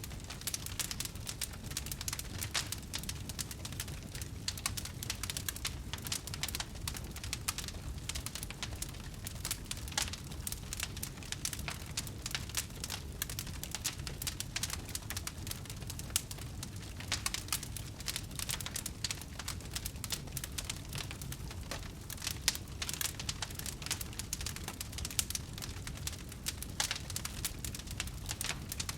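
Burning wood crackling and popping steadily, a dense run of small snaps over a low rumble of the flames, with a few sharper pops.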